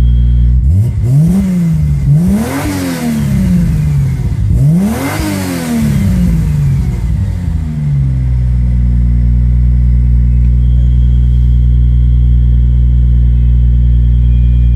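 Single-turbo Toyota 2JZ-GTE straight-six in a 1999 Lexus GS300, warming up on E85 after a cold start: it idles, is blipped up three times in quick succession with the revs falling back between, and settles to a steady idle about eight seconds in.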